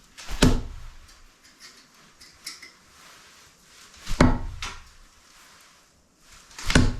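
Three hard clattering knocks, one near the start, one about four seconds in and one near the end, with faint clicks and rattles between them.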